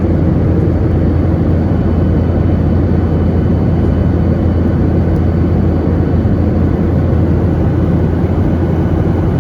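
Airliner engine noise heard inside the cabin during take-off: a loud, steady noise with a deep hum.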